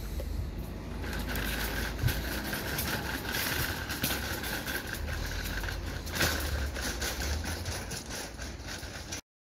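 A motor vehicle's engine running nearby: a steady low rumble with a steady high whine joining about a second in, plus a few sharp clicks. The sound cuts off abruptly near the end.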